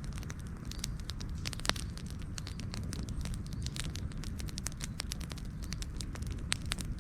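Wood campfire crackling steadily, with many sharp pops and snaps over a low, steady rumble of burning.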